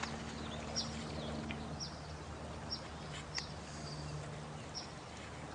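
Night nature ambience: a steady rush of running water with short, high chirps from a small bird, each falling in pitch, about six of them at uneven intervals.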